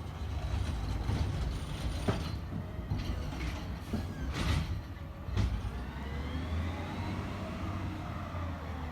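McNeilus ZR rear-loader garbage truck running, its engine a steady low rumble, with several sharp clanks in the first half. In the second half a whine rises in pitch, then falls away again near the end.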